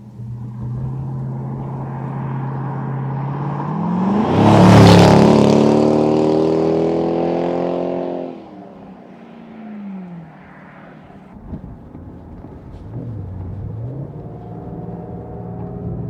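Jaguar XK8 V8 engine and exhaust running. Its note climbs about four seconds in, is loudest around five seconds, then fades and drops back by about eight seconds. It rises again near the end.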